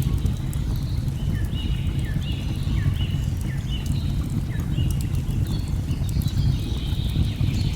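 A steady low rush of falling water, with a bird repeating short, high chirps, many with a quick downward hook, about one or two a second. Faint fire crackles sit underneath.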